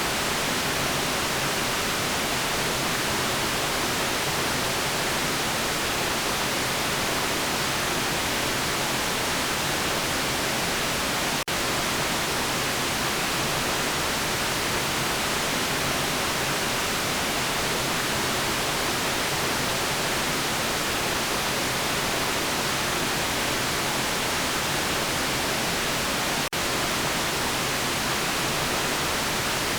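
Steady white noise, an even hiss across the whole range and brightest in the treble. It dips for an instant twice, about 11 seconds in and again near the end.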